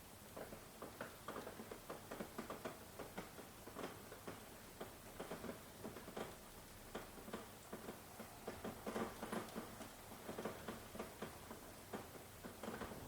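Rain falling in irregular, close drips and ticks on a surface, a light patter.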